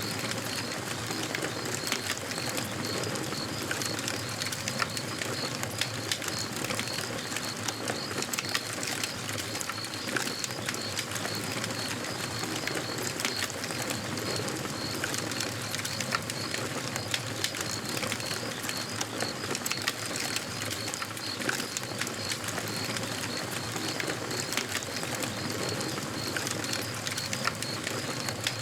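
Campfire burning steadily with frequent small crackles and pops, over a steady high-pitched chirping that repeats about three times a second.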